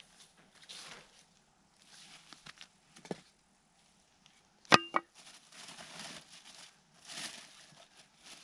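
Axe chopping wood: one sharp, loud strike about five seconds in with a brief ring after it, and a softer knock a couple of seconds before. Rustling and scuffing come and go between the strikes.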